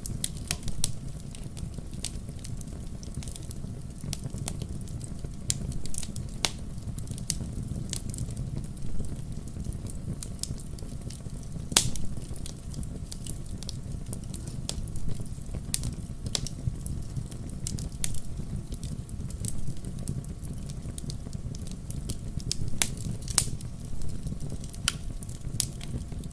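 A fire burning in a fireplace, crackling with irregular sharp pops over a steady low rumble of flame. The loudest pop comes about twelve seconds in.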